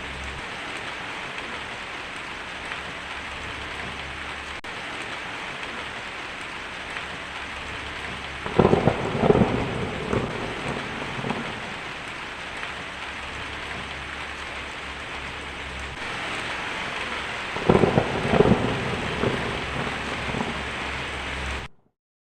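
Steady heavy rain with two rolls of thunder, one about eight and a half seconds in and one about eighteen seconds in. The sound cuts off abruptly just before the end.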